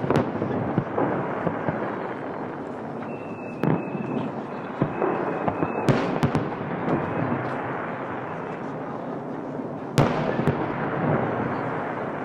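Aerial fireworks shells bursting, several sharp bangs over a dense continuous noise, the loudest about ten seconds in. A steady high whistle sounds for about three seconds in the middle.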